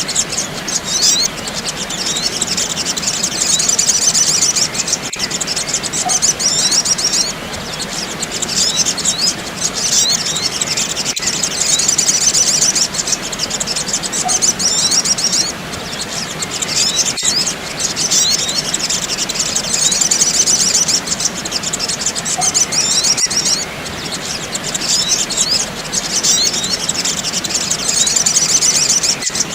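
Rapid, high-pitched chirping and twittering of small birds, the sogok ontong (sogon) calls of a looped bird-luring recording. The chirping comes in bouts of several seconds with short breaks, and a faint click recurs about every six seconds.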